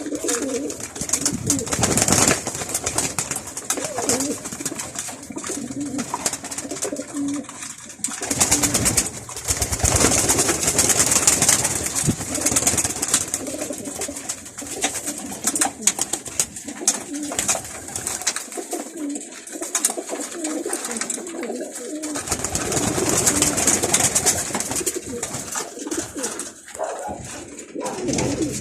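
Domestic pigeons cooing repeatedly, several birds at once, over bursts of rustling noise; the longest stretch of rustling comes about a third of the way in.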